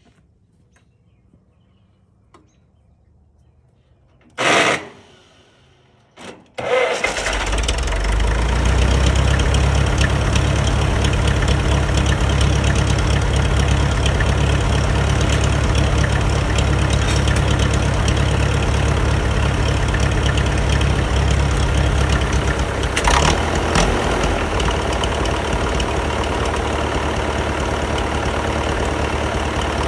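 Farmall Super MD diesel tractor's four-cylinder engine starting: two short bursts of starter cranking, then the engine catches about seven seconds in and runs steadily. There is a brief louder burst about two-thirds of the way through, and the engine keeps running after it.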